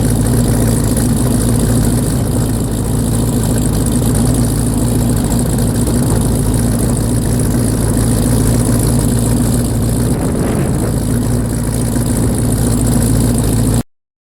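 Twin-turbo Dodge Challenger SRT8's Hemi V8 running steadily at an even pitch with no revving, then cutting off abruptly near the end.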